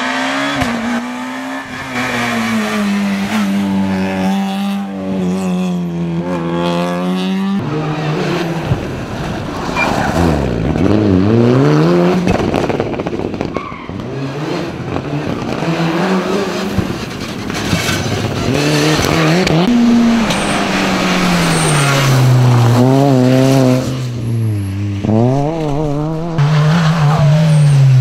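Rally cars at full speed on a stage, one after another: engines revving hard and dropping through gear changes, with tyres squealing and skidding through the corners.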